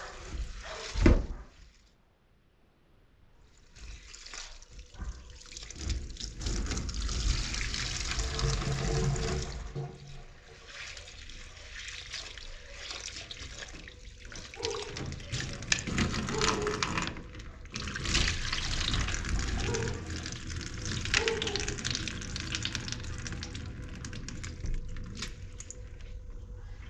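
A sharp knock about a second in, then water pouring and splashing with handling noises, as in washing food or utensils by hand.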